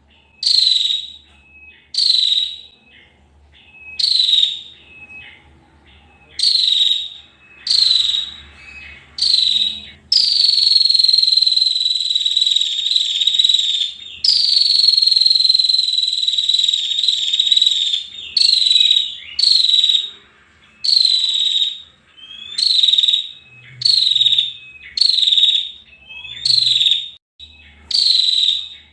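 Female prinia (prenjak) calling: short buzzy, trilling calls that drop in pitch, repeated about every two seconds, with two long drawn-out trills of about four seconds each in the middle.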